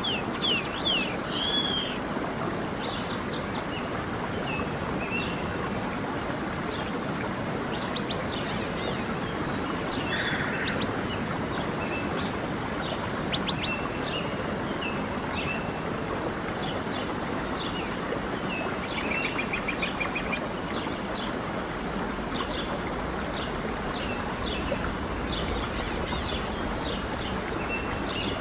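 A stream rushing steadily, with songbirds calling over it: many short chirps and whistles throughout and a quick trill about two-thirds of the way through.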